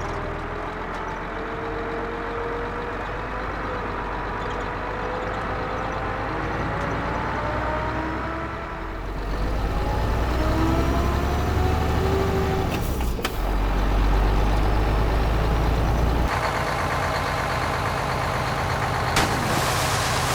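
Small electric motor and gearbox of an RC model tractor whining while it pulls a load, the pitch slowly rising and falling, with the sound changing abruptly twice.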